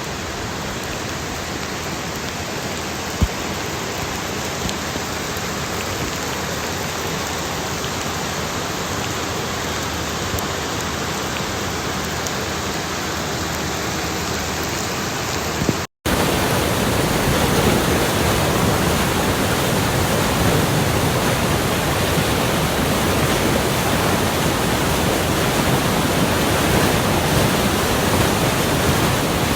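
Steady rushing of rain and running rainwater. About sixteen seconds in it cuts out for an instant and comes back louder and fuller.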